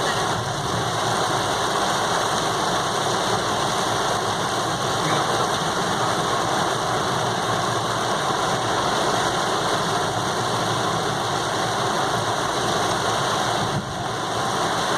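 Steady noise of a vehicle driving through heavy rain: its engine running along with the wash of rain and wet road, briefly dipping near the end.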